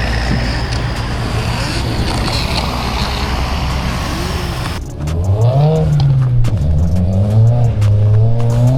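Infiniti G37's V6 engine: a steady engine drone under heavy road and wind noise, then, after a sudden cut about halfway through, the engine revving up and down repeatedly as the car drifts.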